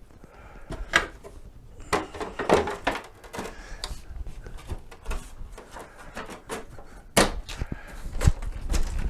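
Irregular knocks and clicks of parts and tools being handled, with rustling in between; the sharpest knocks come about a second in, around two to three seconds in, and near the end.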